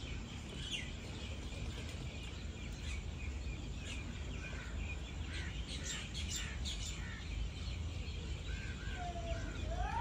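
Small birds chirping in short, high notes over a steady low outdoor rumble, with a few rising calls near the end.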